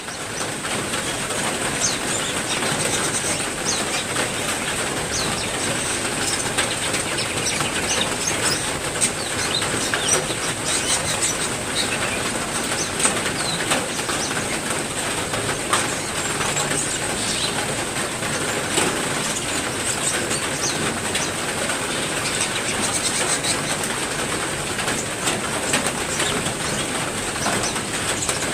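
Heavy rain falling steadily, with many sharp drip taps, while small birds chirp in short calls over it.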